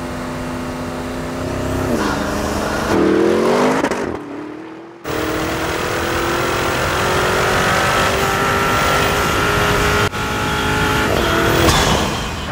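Porsche Cayenne Turbo GT's 4.0-litre twin-turbocharged V8 running. The note is steady, then rises in quick revs about three seconds in, and after an abrupt break makes a long pull with the pitch slowly climbing. Another sudden break is followed by a short rev near the end.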